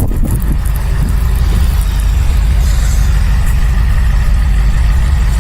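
Blizzard wind gusting across the microphone: a loud, steady low rumble with a rushing hiss above it, in sustained winds of about 35 to 40 mph.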